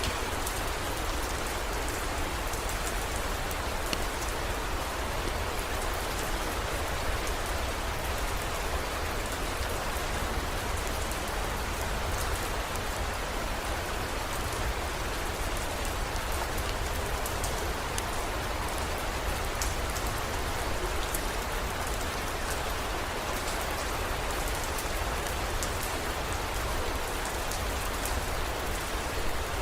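Steady heavy rain falling, an even hiss with scattered faint drop ticks over a constant low rumble.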